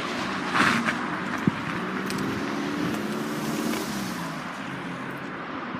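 A motor vehicle's engine running, its note swelling to a peak about three and a half seconds in and then fading away, like a car passing by. A single sharp click comes about a second and a half in.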